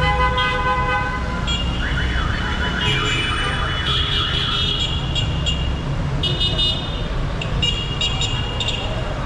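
Dense city traffic rumbling, with many short vehicle horn toots overlapping. From about two seconds in, a wavering, warbling horn-like tone runs for a couple of seconds.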